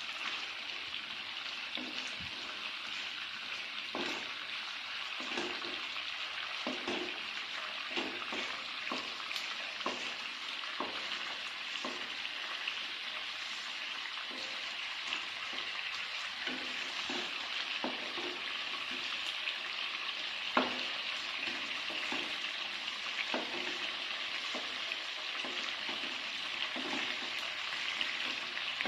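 Food sizzling steadily as it fries in a pan, with irregular knocks and taps of a utensil stirring it; the loudest knock comes about two-thirds of the way through.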